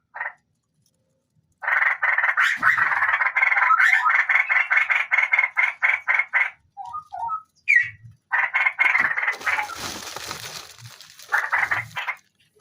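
Straw-headed bulbul nestlings giving rapid, rasping repeated calls, about five a second, starting about a second and a half in and breaking off in the middle before starting again.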